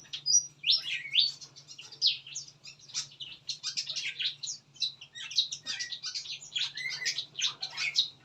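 Chorus of mixed small aviary birds, such as bulbuls, chirping and calling over one another in quick, overlapping notes, with a faint steady low hum underneath.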